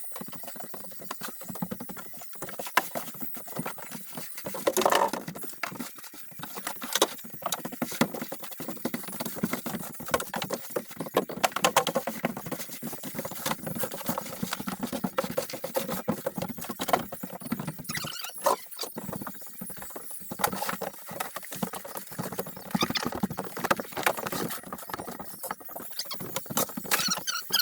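Wall demolition: irregular knocks, clatter and scraping as wall material is broken and pulled out.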